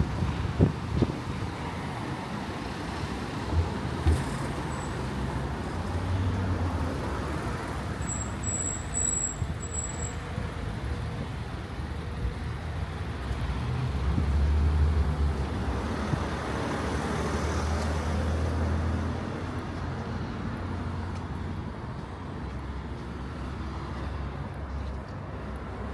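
Street traffic passing: steady engine rumble and tyre noise from cars and larger vehicles, swelling as a vehicle passes close around the middle. A few short high-pitched peeps come about eight seconds in.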